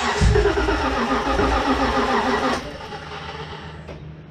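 LS V8 engine being cranked on its starter with a loud, wavering whine that stops abruptly after about two and a half seconds. This is a first start attempt, and the engine does not stay running, with fuel supply the suspected problem.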